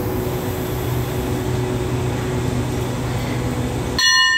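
Steady hum of a diesel passenger train standing at the platform, its engines and air-conditioning running. Near the end a bell is struck once and rings on with a clear tone.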